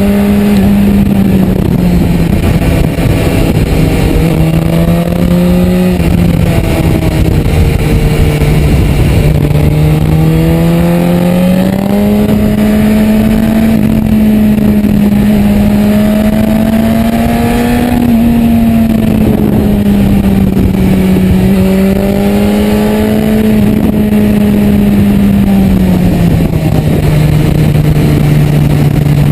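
Suzuki V-Strom motorcycle's V-twin engine running under way, heard from on board with wind rush. Its pitch rises and falls gradually with the throttle, stepping up about twelve seconds in and dropping near the end.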